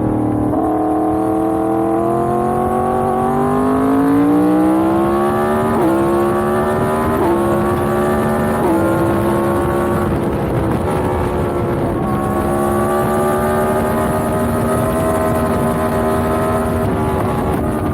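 Yamaha MT-10's crossplane inline-four engine accelerating through the gears. The revs climb for about four seconds, then three quick upshifts about a second and a half apart each drop the pitch suddenly, before the engine settles into a near-steady pull.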